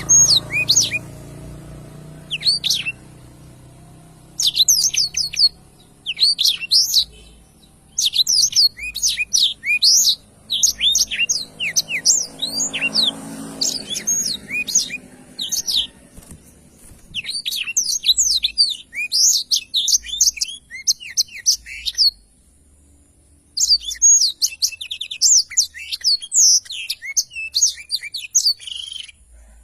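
Black-throated canary (blackthroat) in full song: long phrases of rapid, high twittering notes, broken by short pauses of a second or so.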